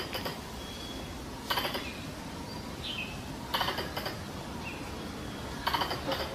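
Squirrel mating-season lure call: bursts of rapid, clicking chatter repeating about every two seconds, with short falling high chirps in between.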